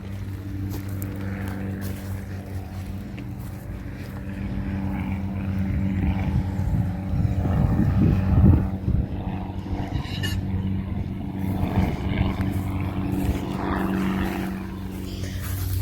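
A vehicle engine running steadily with a low, even drone, getting louder about halfway through.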